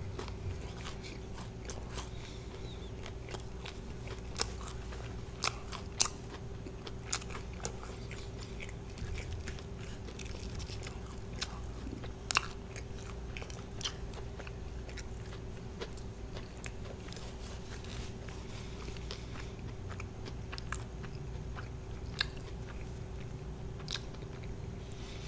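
Close-up chewing of extra crispy fried chicken, with sharp crunches of the breading scattered throughout, over a faint steady hum.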